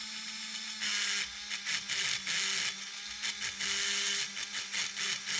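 Small electric motor and worm-gear drive of an HO-scale steam locomotive running on the bench, a buzzing whir that starts about a second in and cuts in and out several times over a steady low hum. The owner finds the drive slipping between the worm gear and the large gear.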